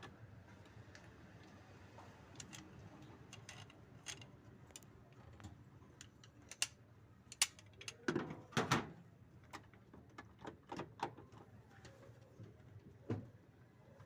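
Metal tools and washing machine parts being handled during disassembly: scattered clicks and light metallic knocks, a louder cluster of clanks about eight seconds in and one more knock near the end.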